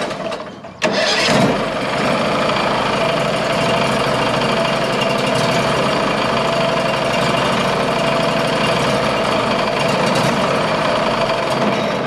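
Sawmill's 21 hp Briggs & Stratton Vanguard V-twin engine being started: it catches about a second in and then runs steadily. The run is a check of its cooling airflow, with mice nests just cleared from under the engine cover.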